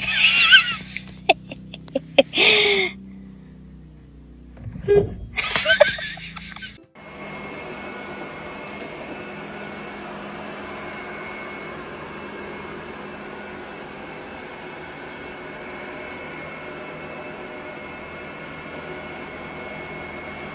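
Bursts of human laughter inside a car over a low engine hum. About seven seconds in, the sound cuts to a robot vacuum cleaner running steadily: an even whirr with a thin, high whine.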